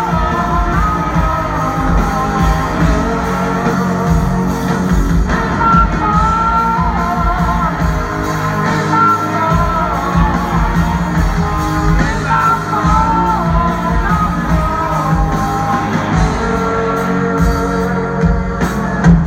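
Live rock band playing, with a singer's voice carrying a wavering melody over electric guitar, bass and drums.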